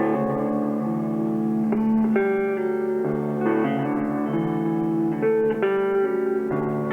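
Live band playing an instrumental passage, led by guitar chords that ring on and change every second or so, with no singing.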